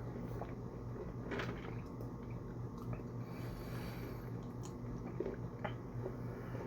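Close-miked chewing of food: soft wet smacks and small mouth clicks over a steady low hum.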